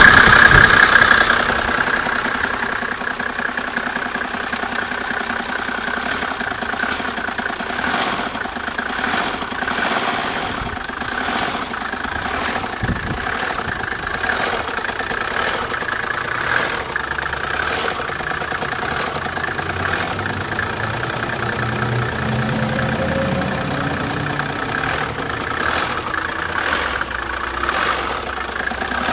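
Mercedes OM603 turbodiesel straight-six idling steadily with a rattling knock from the timing chain, a sign of a worn, stretched chain.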